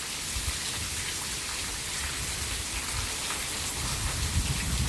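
Steady heavy rain falling and pattering on surfaces, an even hiss, with a low rumble building up near the end.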